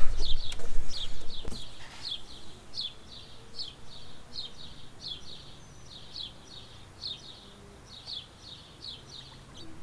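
A small bird chirping over and over: short, high, downward-sliding notes, two or three a second. Louder handling knocks and rustling in the first second and a half.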